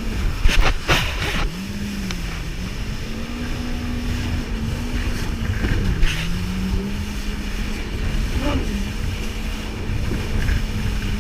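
Jet ski engine running steadily, its pitch dipping and climbing back twice with the throttle, with a few short noisy bursts over the rumble.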